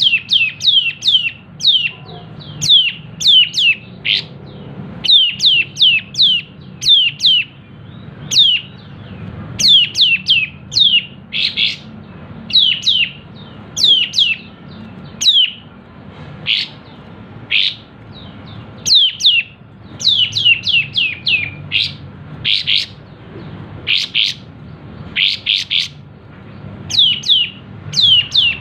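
A kapas tembak (cream-vented bulbul) calling energetically: quick bursts of two to five short, sharp notes that drop in pitch, with now and then a buzzier note, repeated without pause.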